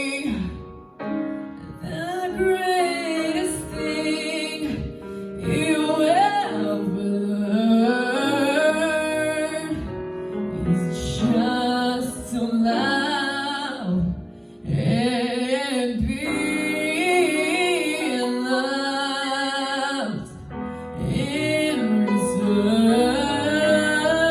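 Music: a singing voice holding and bending long notes over accompaniment, with no clear words.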